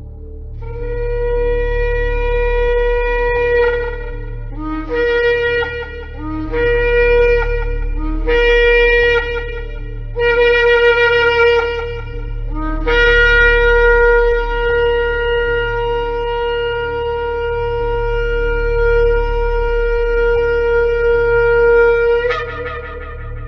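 Shofar (ram's-horn trumpet) blowing: a blast of about three seconds, then four shorter blasts that each start on a low note and break upward, then one long held blast of about nine seconds that jumps up in pitch just before it stops. A steady low hum runs underneath.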